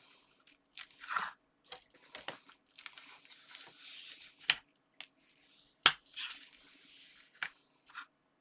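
Folded card stock being handled and pressed together: irregular rustling and crinkling with a few sharp clicks, the loudest about four and a half and six seconds in.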